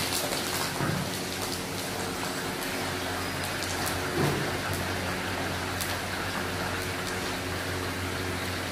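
Sliced onions and aromatics sizzling in oil in a large wok, a steady hiss over a low hum, with a couple of knocks from the metal spatula about a second in and about four seconds in.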